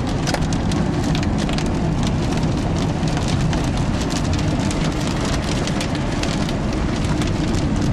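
Rain drumming on a car's roof and windshield, heard from inside the cabin as scattered sharp drop impacts over a steady road and engine rumble.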